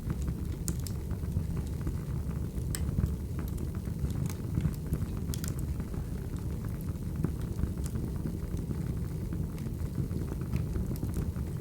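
Wood fire burning: a steady low rush with irregular sharp crackles and pops from the burning logs.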